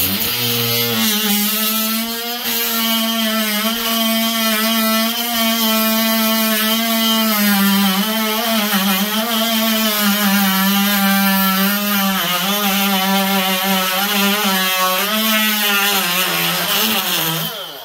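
Power tool running steadily while cutting grout out from around a ceramic floor tile, its whine wavering slightly in pitch as it works along the joint. It stops shortly before the end.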